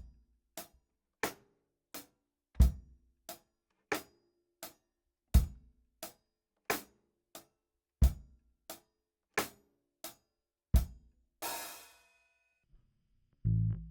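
Acoustic drum kit playing a slow steady beat, about three hits every two seconds, with a bass drum on every fourth hit, closing with a ringing cymbal crash. A low electric bass guitar note follows near the end.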